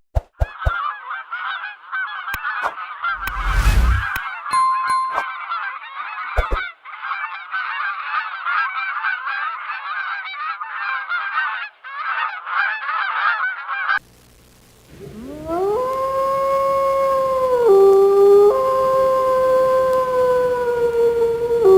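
A flock of geese honking and chattering over one another without pause. After a sudden break, a long, held pitched call follows that drops in pitch twice.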